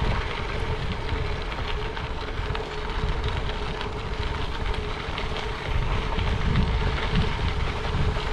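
Wind buffeting the microphone over the rumble of bicycle tyres rolling along a dirt towpath, with a faint steady hum underneath.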